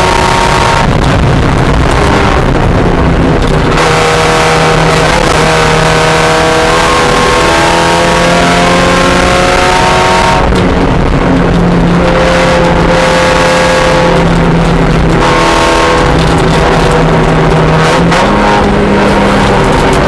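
Spec Miata race car's four-cylinder engine running hard through a lap, loud throughout. Its pitch climbs steadily under acceleration and drops sharply several times at gear changes or braking.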